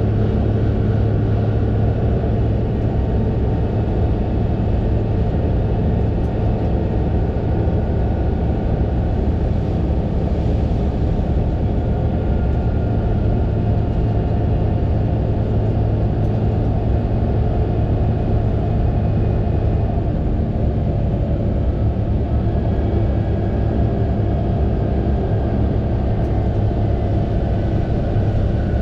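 Fendt 936 Vario tractor's six-cylinder diesel engine running steadily at constant revs, a continuous low drone with no change in speed.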